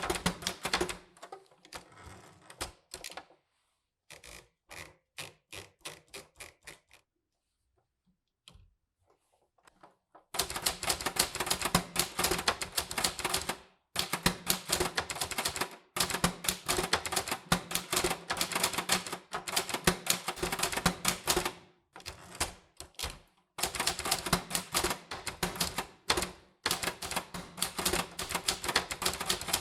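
Typewriter being typed on: rapid clacking keystrokes. For several seconds in the first third the strokes come sparse and faint, then settle into fast runs of typing broken by short pauses.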